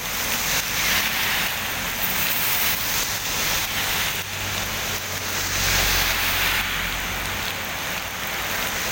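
Moderate to heavy typhoon rain falling steadily: a continuous hiss of rain on surfaces, with a low rumble swelling through the middle.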